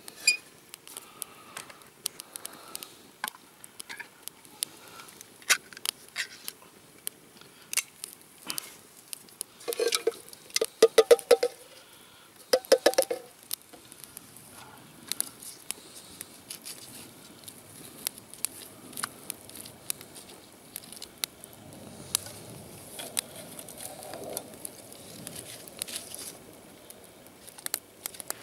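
Campfire crackling with scattered sharp pops, and about ten to thirteen seconds in a few loud rasping scrapes, like a spoon scraping a metal pot or tin while the chili con carne is being cooked.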